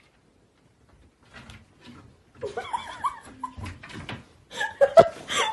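People laughing and exclaiming, with a single sharp thump about five seconds in.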